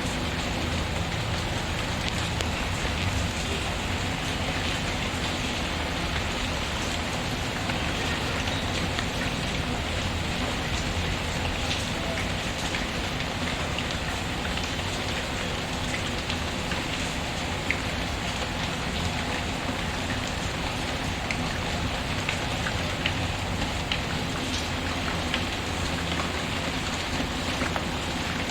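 Steady rain patter, with scattered small sharp crackles from a fireplace fire.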